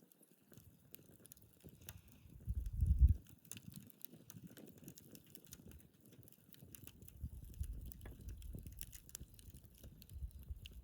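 Wood fire crackling with scattered small, irregular pops, and a low rumble swelling up about three seconds in and again for a couple of seconds later on.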